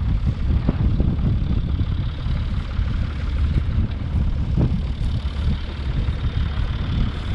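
Vintage tractor engine running steadily at a low, even pace.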